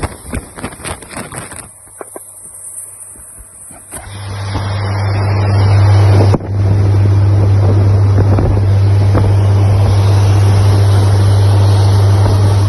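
Open-topped Mini Moke on the move: crackly knocks and buffeting at first, then from about four seconds in a loud, steady engine drone with wind rushing over the microphone, broken for a moment about six seconds in.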